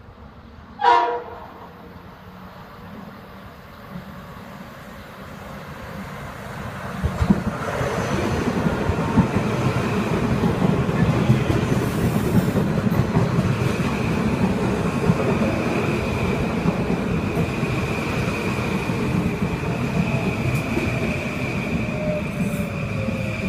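Metro-North Kawasaki M8 electric multiple-unit train arriving at a station platform: rumble and wheel clatter build from about four seconds in and stay loud as the cars pass. Over it a steady high whine sets in, and a tone slowly falls in pitch near the end as the train slows. About a second in there is a brief, loud, sharp sound falling steeply in pitch.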